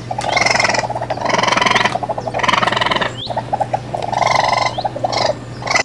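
Raccoon chittering: a pulsed, trilling call repeated about once a second, with short bird chirps faintly behind it.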